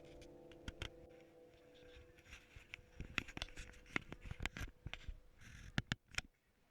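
The last of a held musical tone fades out. Then comes a run of faint, irregular clicks and light taps, which stops abruptly about six seconds in.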